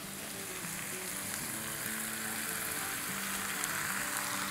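Diced potatoes sizzling steadily as they fry in a pan, with background music.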